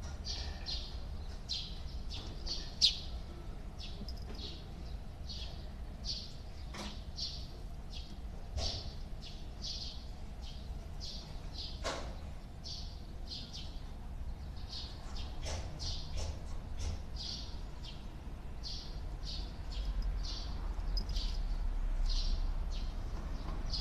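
Small bird chirping over and over in short high notes, about two a second, with a few sharp clicks, the loudest about three seconds in, and a low rumble that swells near the end.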